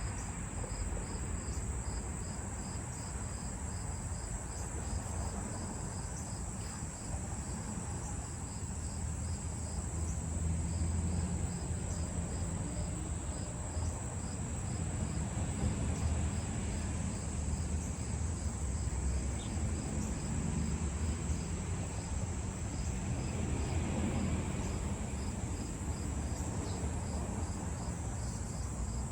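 Crickets singing: a continuous high trill with a second, evenly pulsed chirping just below it, repeating steadily, over a low rumbling background.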